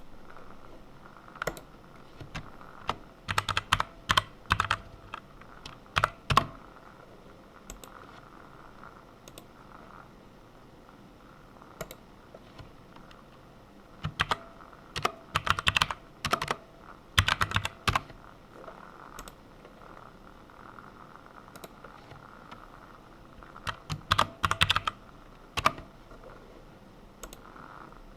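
Typing on a computer keyboard in three bursts of quick keystrokes, with pauses and a few single key presses in between.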